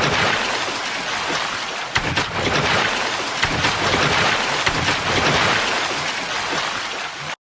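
Ocean water sound effect: a steady rushing wash of sea water with scattered splashes and thumps, cutting off suddenly near the end.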